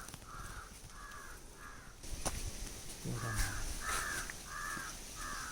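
A crow cawing in quick runs of short, evenly spaced caws: three in the first couple of seconds, then four more after a short gap, with a sharp click between the runs.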